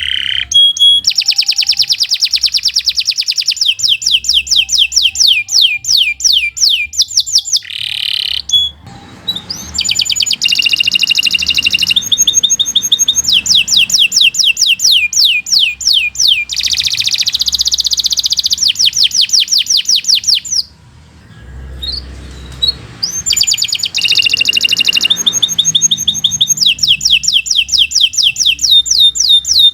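Domestic canary singing long, rapid trills of fast-repeated high notes, phrase after phrase, with a short pause about two-thirds of the way through.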